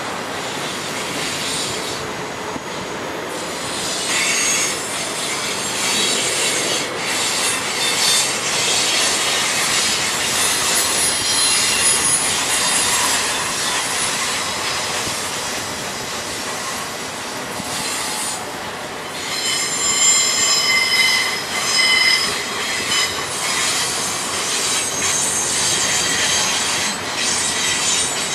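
Union Pacific freight train rolling past, its steel wheels squealing against the rails over a steady rumble and clatter of the cars. The high-pitched squeal comes and goes, strongest in two long spells, typical of wheel flanges grinding on a curve.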